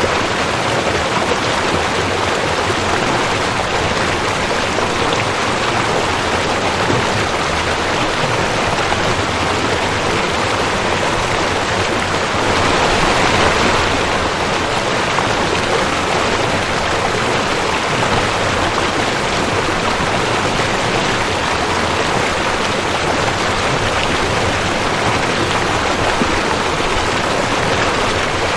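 Rushing creek: water running steadily over rocks, with a brief swell in the rush about halfway through.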